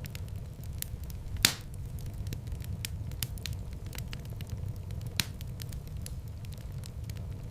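Wood fire in a fireplace crackling with many small snaps over a steady low rumble, and two louder pops, about a second and a half in and about five seconds in.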